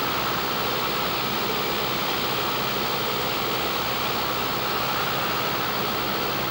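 Cabin noise of a Cessna light aircraft in flight: its piston engine and propeller running steadily under a dense rush of air noise, with a low, even hum beneath.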